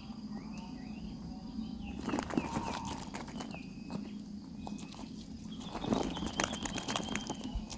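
Nestlings scrabbling and rustling in the nest, with many irregular scratchy clicks and knocks. Short, thin chirps come now and then, and one longer, steady high call sounds near the end, over a low steady hum.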